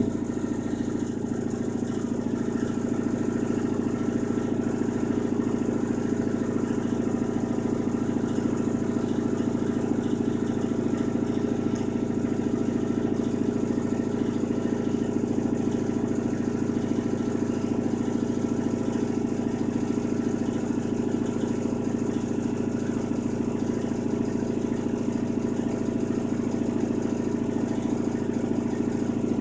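2007 National washing machine running: a steady, even motor hum with no change through the stretch.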